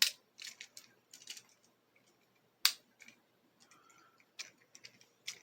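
Scattered sharp plastic clicks and light taps from Beyblade tops and launchers being handled, with a louder click near the start and another about two and a half seconds in.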